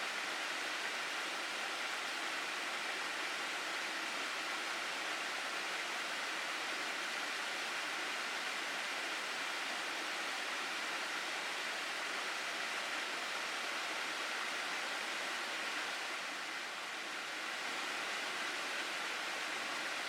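Steady rushing of water in a mountain gorge stream, an even hiss with a brief slight drop about sixteen seconds in.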